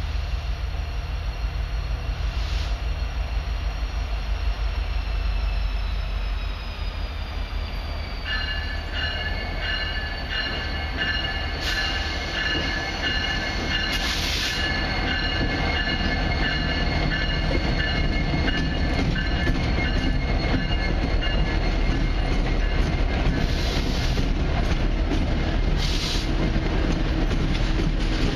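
A CN intermodal freight train passing close by, led by two diesel locomotives, a GE ES44AC and an EMD SD75I. A low engine rumble builds as the locomotives arrive, and the double-stack container cars then roll past with steady wheel-on-rail noise and high-pitched, broken-up squealing from the wheels through the bend.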